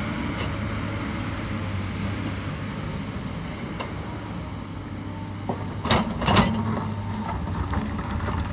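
Hyundai excavator's diesel engine running steadily, with two loud knocks half a second apart about six seconds in.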